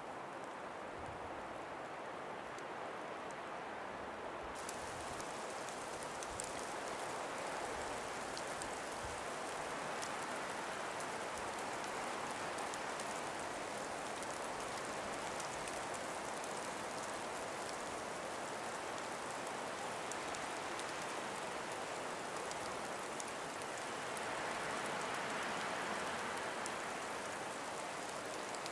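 Calm breeze through ice- and snow-laden forest trees: an even rushing hiss that swells near the end, with faint scattered ticks.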